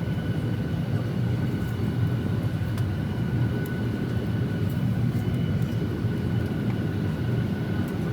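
Steady cabin noise of a Boeing 737-800: its CFM56-7B turbofans and the airflow make a constant low rumble, with a faint steady whine above it.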